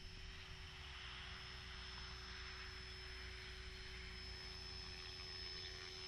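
Mini electric RC helicopter in flight: a faint, steady high whine and a lower steady tone over a wash of rotor noise.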